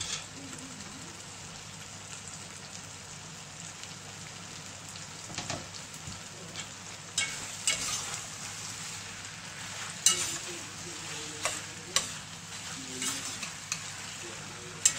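Chicken, green peppers and mushrooms sizzling steadily in an enamelled cast-iron casserole pot as they are stirred with a metal spoon. The spoon clinks sharply against the pot a handful of times in the second half.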